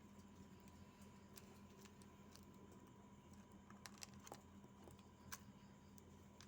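Near silence: a faint steady hum with a dozen or so soft, scattered clicks and ticks.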